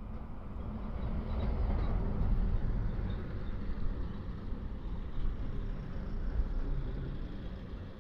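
Steady low wind rumble and road noise from riding, with vehicle sound mixed in, swelling louder about two seconds in.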